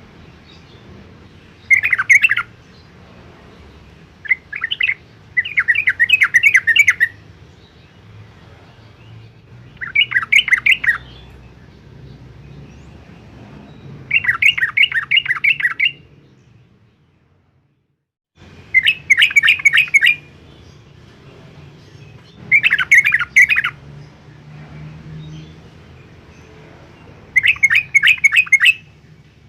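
Yellow-vented bulbul singing: short bursts of quick, bubbling notes, repeated about eight times with pauses between. The sound cuts out completely for about a second and a half, two-thirds of the way through.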